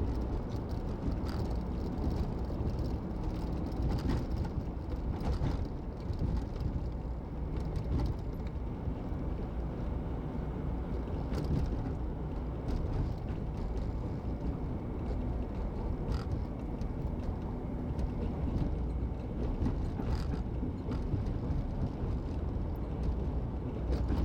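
Steady road and engine noise of a car driving along a highway, a low even rumble with a few faint clicks.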